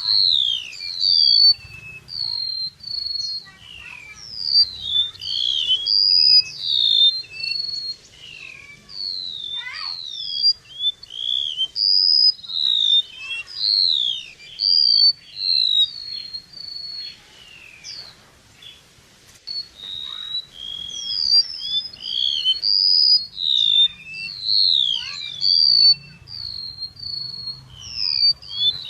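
Flowerpecker (chim sâu) song in its 'kéo đờn' style: a continuous, busy stream of high, thin chirps and short whistles, many sliding quickly downward and overlapping one another, a call used as a lure for trapping these birds.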